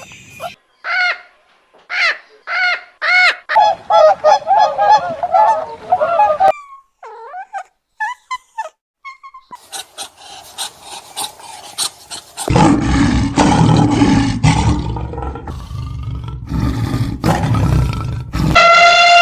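A run of different animal calls edited one after another: several short rising-and-falling calls, a fast warbling stretch, a few faint chirps, then a long, loud, low noisy sound, and a pitched call sliding downward near the end.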